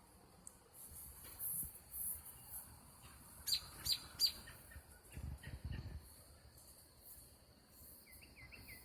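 Songbirds chirping faintly: scattered short high chirps, with a few quick down-slurred calls about three to four seconds in and a short run of repeated notes near the end, over a faint steady high tone.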